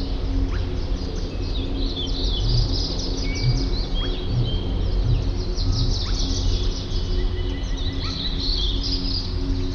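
A chorus of wild birds chirping and calling continuously: many short, quick chirps overlapping with a few brief whistled notes, over a steady low hum.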